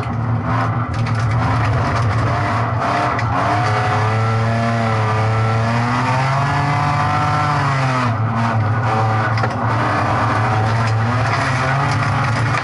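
A race car's engine heard from inside the cabin, running hard under racing load. Its pitch rises and falls with the throttle, climbing about halfway through and dropping back near 8 seconds.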